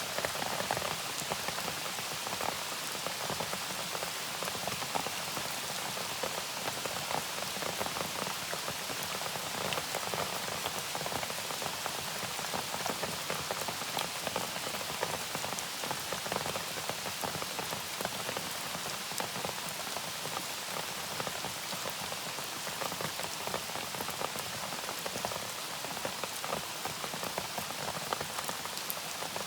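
Steady rain falling, with many individual drops striking close by, evenly throughout.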